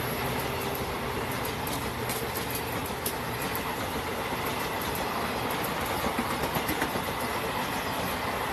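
Coaches of an express passenger train passing at speed: a steady rush of wheel and rail noise with clickety-clack over the rail joints and scattered sharp clicks.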